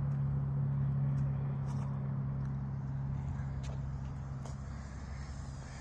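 Electric RC airplane's motor and propeller droning at a steady pitch in flight, swelling slightly about a second in and then slowly fading as the plane moves away.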